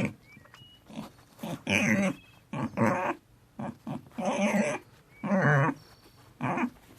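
An animal calling repeatedly in a series of short calls, each under a second long.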